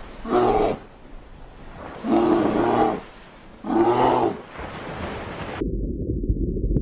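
Three loud, drawn-out calls from a large animal, each lasting under a second, with a pause between them. About two-thirds of the way through, the sound cuts abruptly to a low, muffled rumble.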